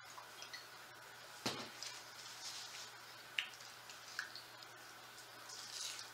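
Close-up wet chewing and lip-smacking of people eating pizza with a thin, crispy crust, broken by a few sharp clicks, the loudest about one and a half seconds in.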